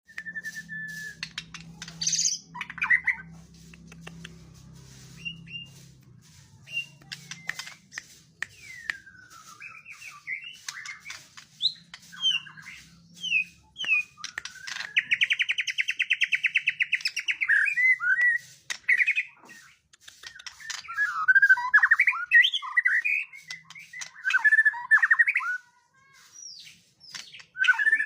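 Young white-rumped shama singing a varied song of whistled notes and glides, a fast trill about halfway, and chattering phrases near the end. The song is laced with mimicked calls of cililin, kingfisher and house sparrow.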